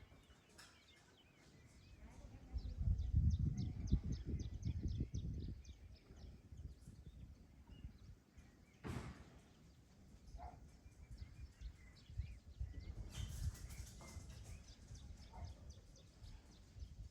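Outdoor nature ambience: a bird giving a quick run of short high chirps, over low rumbling gusts that swell for a few seconds. A sharp click about halfway through.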